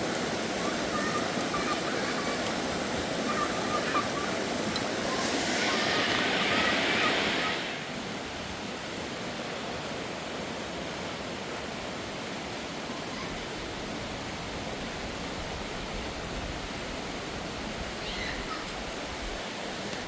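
Steady rush of running water. A few faint high chirps sound over it in the first eight seconds, and the rush swells briefly before dropping to a lower, even level about eight seconds in.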